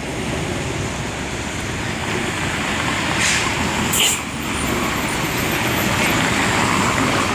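Trucks passing on a road: a steady wash of engine and tyre noise, with two short hisses about three and four seconds in.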